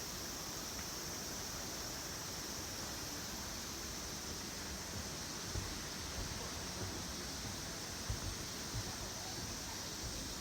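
Steady outdoor hiss, strongest in the upper register, with a few faint low thumps in the second half.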